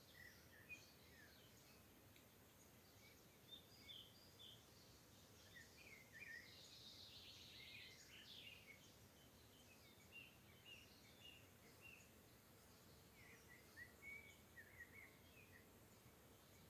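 Faint bird calls: short chirps scattered throughout, with a denser twittering stretch about six to eight seconds in, over a quiet background.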